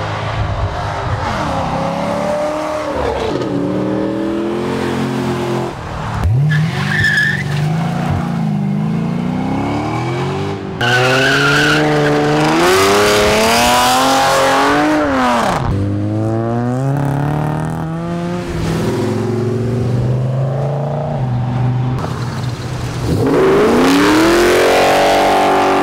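Several car engines revving hard one after another, pitch climbing and dropping with gear changes and throttle blips, with tyres squealing as the cars slide sideways under power.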